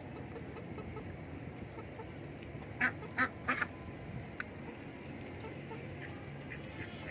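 Chickens and ducks clucking and quacking as they feed, a steady low murmur of the flock broken by three short, loud calls about three seconds in and one more soon after.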